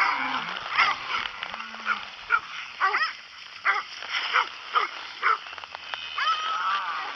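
Cattle dogs barking and yipping in about a dozen short, sharp barks while working cattle, with low bawling of cattle near the start.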